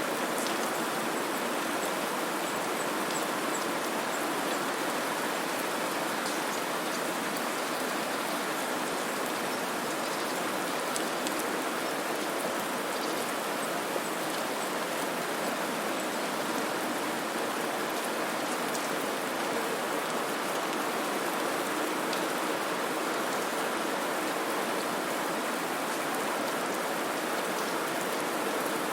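Steady white noise: an even, unbroken hiss with a few faint scattered ticks.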